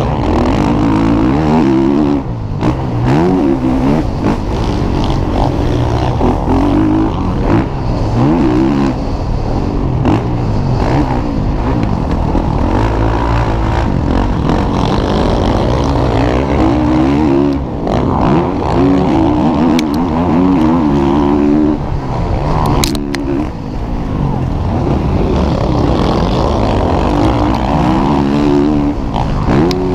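Motocross bikes racing, their engines revving up and dropping off again and again as the riders work the throttle and shift.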